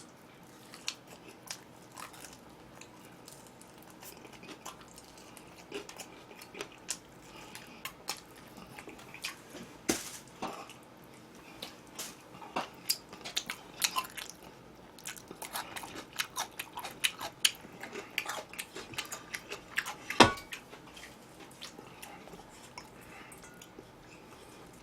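A person chewing and biting crunchy food close to the microphone, with many small crisp clicks and smacks, and one louder knock about 20 seconds in.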